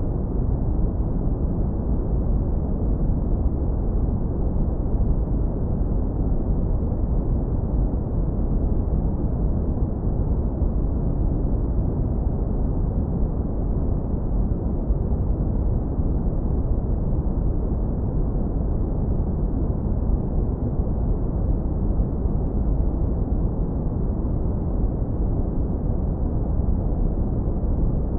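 Synthetic brown noise, heavily low-pass filtered so only a deep, steady rumble remains. It runs without change.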